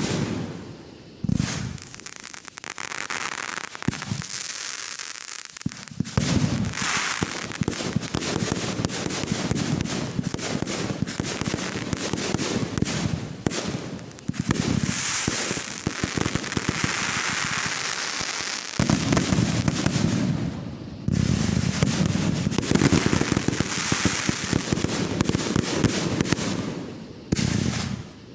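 Fireworks going off without a break: a dense run of crackling and popping, with deep booms that build to a heavier barrage in the second half. The firing thins out briefly twice, near the start and just before the end.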